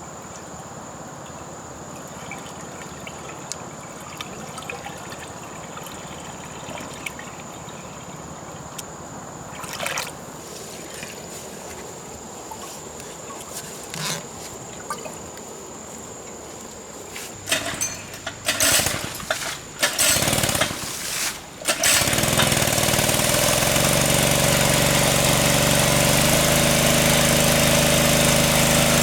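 A small petrol engine driving a water pump is pull-started with several loud yanks and catches about three-quarters of the way in, then runs steadily and loudly. Before that, a faint steady high whine sounds over a quiet background.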